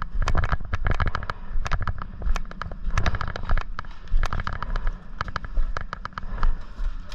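Airsoft guns firing in irregular bursts of rapid sharp shots.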